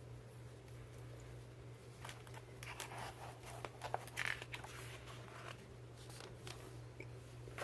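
A picture-book page being turned by hand: faint paper rustling and light clicks for a few seconds in the middle, over a steady low hum.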